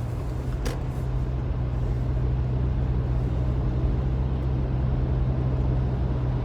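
Steady drone of a car driving, heard from inside the cabin: a low engine hum under road noise, with one short click just under a second in.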